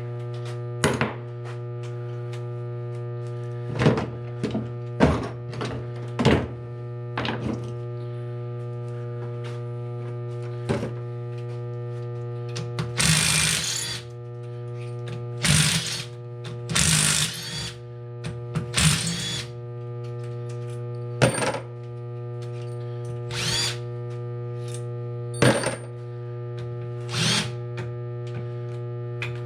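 Metal tools clinking and knocking against an engine case as bolts are removed. Several short runs of a power driver come in the middle, all over a steady hum.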